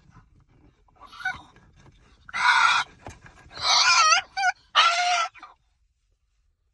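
Moluccan cockatoo calling: a soft call, then three loud, raspy screeches, the middle one wavering in pitch. The sound then cuts off to total silence.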